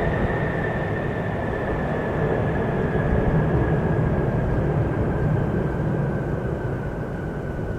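Jet airliner's engines: a loud rushing noise with a high whine that slowly drops in pitch as the sound gradually fades.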